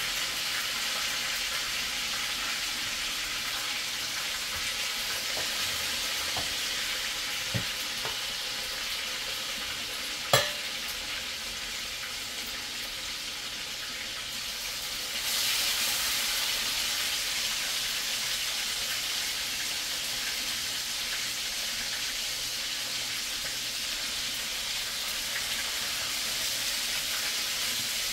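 Chicken wings sizzling as they pan-fry, a steady hiss. There are two metal clinks, the sharper one about ten seconds in. The sizzle grows louder about fifteen seconds in as another piece of chicken goes into the pan.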